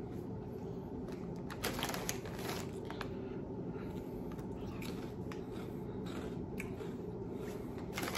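Cheetos Hot and Sweet corn snacks being chewed, a series of irregular crunches, with a hand rustling in the snack bag near the end.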